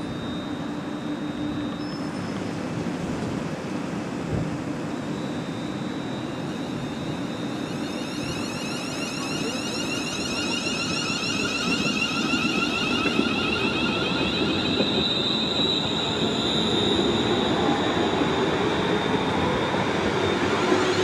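A passenger train running through a railway station, its rumble building steadily through the second half, with high whining tones above it.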